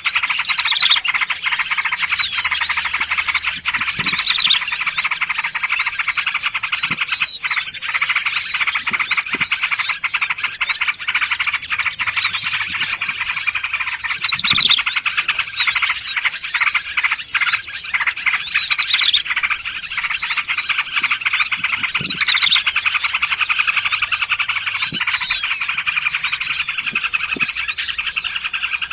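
Dense chorus of many small songbirds chirping, trilling and calling over one another without pause, a bird-lure track mixing several small forest birds. Some phrases recur every several seconds.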